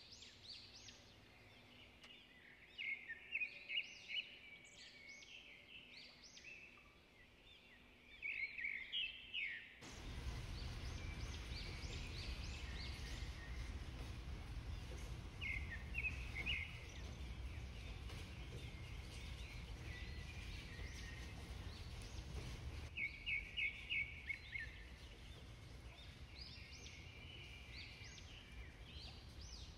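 Small birds chirping in quick series of high notes, several runs loud and close, over a faint background hiss. About ten seconds in, a low, steady rumble of background noise starts abruptly and carries on underneath.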